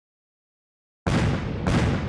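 Dead silence, then about a second in a sudden deep boom, followed by a second boom just over half a second later.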